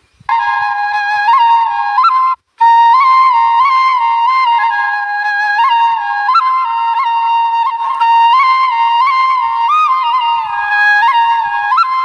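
Background music: a solo flute-like melody of held notes with quick ornamental turns, dropping out briefly twice, right at the start and about two and a half seconds in.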